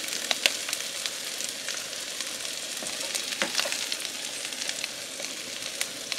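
Eggs sizzling and crackling in hot oil in a non-stick frying pan on a portable gas camp stove. A couple of sharper clicks come from the spatula against the pan, about half a second and three and a half seconds in.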